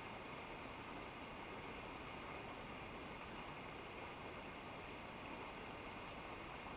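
Faint, steady rushing of a mountain river or waterfall, an even wash of water noise with no change.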